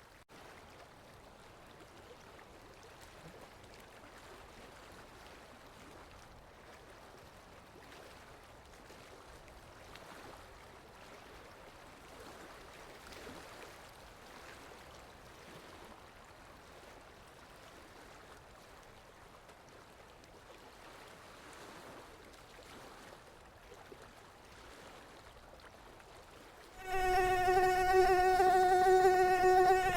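Faint steady hiss for most of the stretch, then a mosquito's flight whine cuts in suddenly near the end: a steady, unwavering buzz with many overtones.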